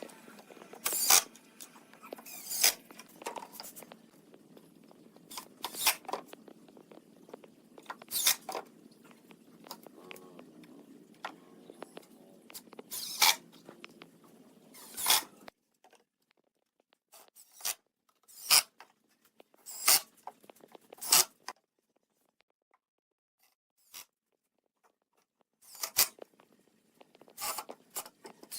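Scattered short, sharp clicks and knocks, a second or a few seconds apart, like small parts or tools being handled. A faint steady hum lies under them and stops abruptly about halfway through.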